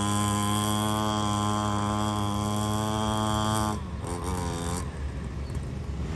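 A small engine running with a steady, buzzing drone at one pitch that cuts off suddenly a little under four seconds in, leaving a quieter low rumble.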